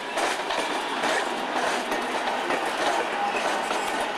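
Locomotive-hauled passenger train passing close by, wheels clicking over rail joints and points under a steady rushing rumble.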